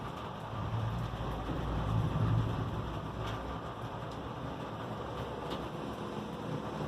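Steady rain with a low rumble of distant thunder that swells about two seconds in and then fades.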